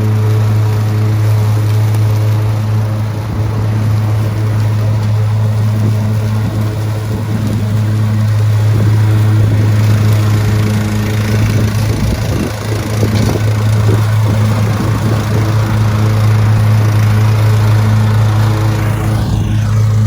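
Lawn mower running steadily with a constant hum, its sound roughening and dipping briefly a little past the middle as it takes on load.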